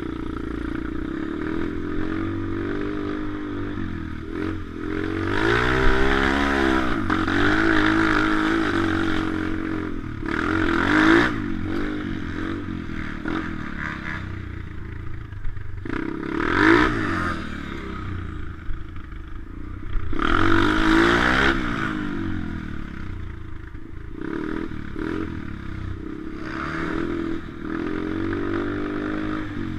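Pit bike engine being ridden hard, its pitch climbing and dropping again and again as the rider opens and closes the throttle through gear changes and corners, with several louder surges.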